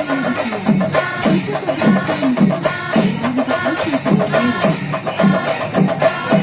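Percussion music with a steady, repeating beat of drum strokes and pitches that bend.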